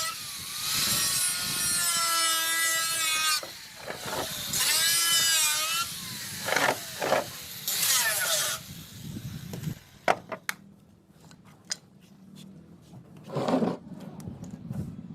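Power cutting tool slicing through a fiberglass pillar, its motor whine dipping and rising under load in several passes. The cutting stops about nine seconds in, followed by scattered clicks and knocks and one short burst of cutting near the end.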